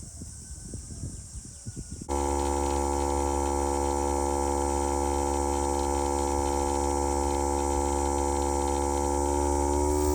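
Portable air compressor switching on about two seconds in and running with a loud, steady, even hum, its pitch shifting slightly near the end. Faint rustling and small knocks come before it.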